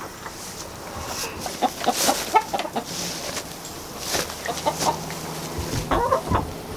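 Chickens clucking, short calls in two bunches.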